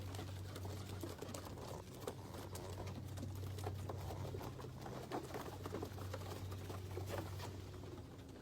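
Birds moving about close by: scattered light clicks and scuffles, over a steady low hum.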